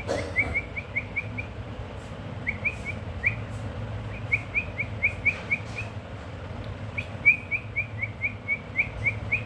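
Pet parrot chirping: runs of short, quick chirps, about four a second, broken by pauses of a second or so, over a low steady hum.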